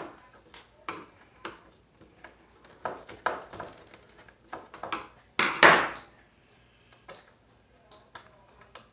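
Hands handling and fitting keyboard parts: scattered light clicks, knocks and rubbing, with one louder clatter a little past halfway.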